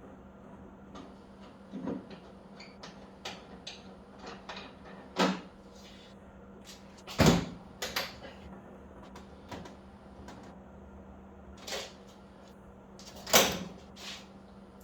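Hand tools working the small bolts on a motorcycle: scattered clicks and light metallic knocks from a socket wrench and loose hardware being handled, with two louder knocks about seven seconds in and near the end.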